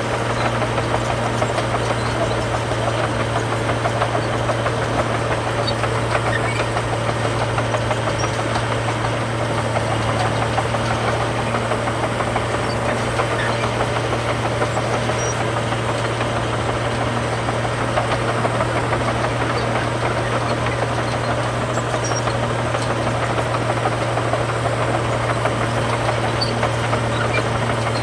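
Heavy diesel engine of road-building machinery running steadily under load, a constant low drone with mechanical clatter above it that does not let up.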